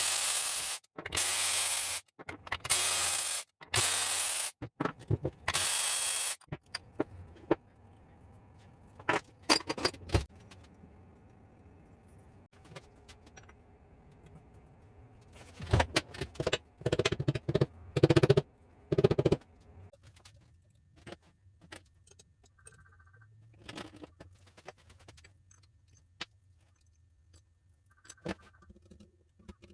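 Five short bursts of loud hissing in the first six seconds, then scattered clinks and scrapes of metal parts being handled, with a louder spell of rattling around the middle.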